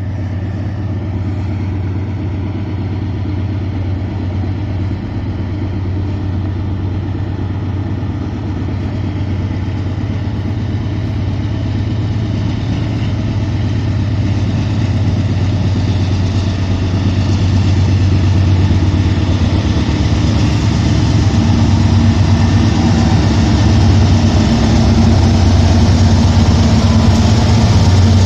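Diesel locomotive engine running with a low, steady rumble that grows gradually louder as the train approaches. A higher steady tone joins the rumble about three quarters of the way through.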